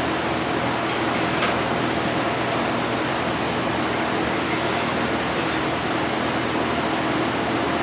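Steady machine whir and hum, like a fan or air-conditioning unit running, with a few faint short rustles about a second in.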